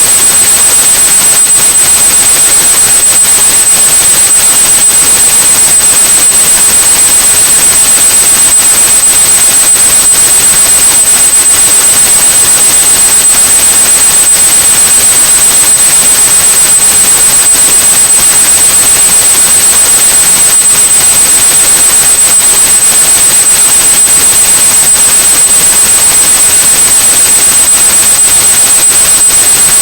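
A steady high-pitched 8100 Hz tone held over loud, continuous white noise: a synthetic tinnitus-masking sound.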